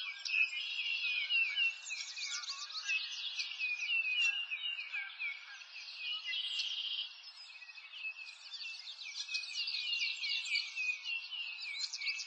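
A chorus of small birds chirping and twittering rapidly and high-pitched, a little quieter for a couple of seconds past the middle.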